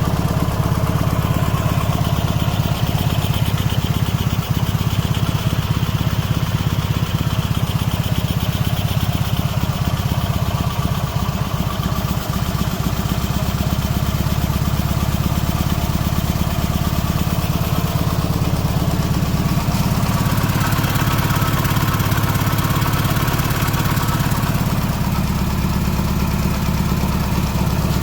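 Soviet M72 side-valve flat-twin engine running steadily, with its pitch shifting slightly about two-thirds of the way through.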